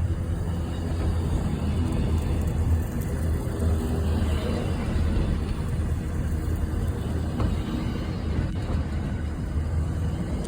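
Class 66 diesel-electric locomotive's two-stroke V12 engine running with a steady low drone as it hauls a freight train at low speed under a speed restriction.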